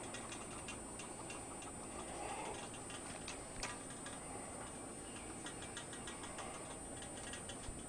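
Faint, fast ticking, several clicks a second, over a steady hiss, with one slightly sharper click about three and a half seconds in.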